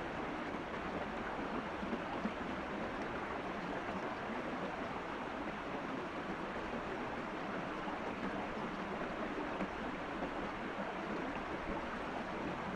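Steady rush of a forest stream's running water.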